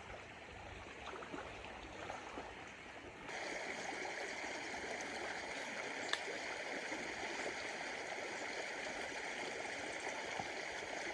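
Steady rush of flowing stream water, faint at first and growing louder and brighter about three seconds in.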